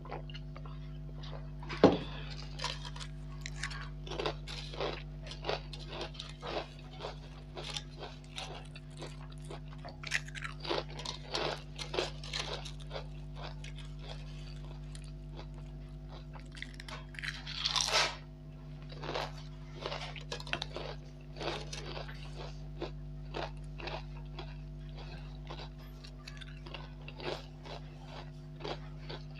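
Close-up crunching and chewing of crisp potato chips, bite after bite, with a steady low electrical hum underneath. A single sharp knock about two seconds in.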